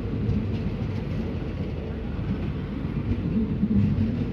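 Indian Railways passenger coaches rolling slowly past on their rails, a steady low rumble of wheels and running gear.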